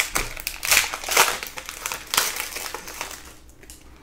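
Plastic trading-card packaging crinkling as it is handled and torn open, in a run of uneven crackly bursts that die away about three seconds in.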